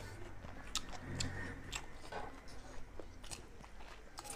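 Mukbang eating sounds: chewing and lip smacking over a meal of chicken and rice eaten by hand, heard as irregular short wet clicks.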